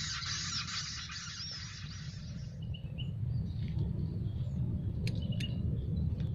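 Birds chirping: a dense, high twittering with repeating notes that fades out about two and a half seconds in, leaving a few scattered chirps and two sharp ticks over a steady low rumble.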